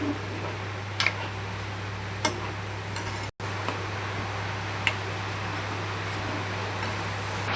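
Spoon or spatula stirring chicken in a cooking pan, knocking against the pan three times, spaced out, over a steady low hum. The sound cuts out for an instant about three seconds in.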